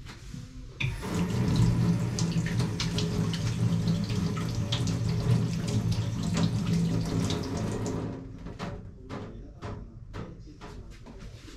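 Kitchen tap running into a sink. It is turned on about a second in and off about eight seconds in, and a series of light knocks and clicks follows.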